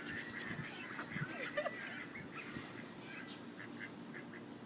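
Ducklings peeping, a faint, quick run of short high chirps several times a second.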